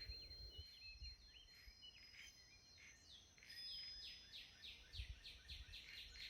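Faint birdsong: scattered high chirps, then a quick run of short descending notes, about five a second, from about halfway through, over a thin steady high tone.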